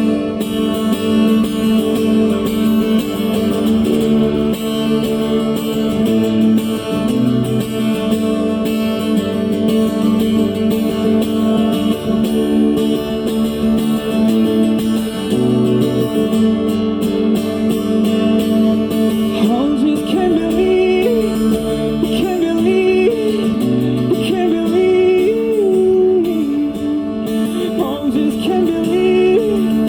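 Guitar playing a steady chord accompaniment. About two-thirds of the way through, a singer comes in with a melody line that slides up and down in pitch, and the recogniser finds no words in it.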